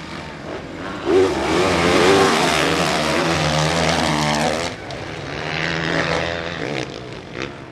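Motocross motorcycle engines revving hard on the track. One bike comes close about a second in and stays loud for several seconds, its pitch swinging up and down with the throttle, then the sound drops back to bikes further off.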